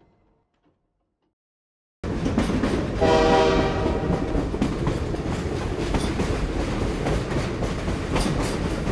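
Near silence, then about two seconds in a running train starts suddenly, rumbling with wheels clacking over the rails. About a second later it sounds a short, chord-like horn blast.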